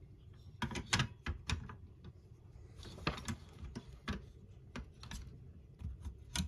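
Plastic model-kit parts clicking and knocking as they are handled and set in place on the frame: about ten irregular light clicks, the loudest about a second in and near the end.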